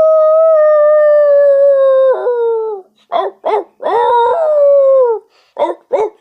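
A dog howling: one long howl held steady for over two seconds, breaking and falling in pitch at its end. Then come a few short yips and a second howl that slides down.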